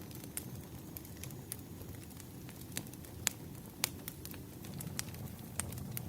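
Crackling wood fire: a steady low rumble and hiss with sharp, irregular pops of burning logs, the loudest a little over three seconds in.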